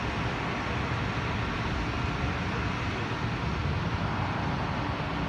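Steady low engine rumble and broad mechanical noise as an SUV drives slowly out of a car wash exit, with roadway traffic behind.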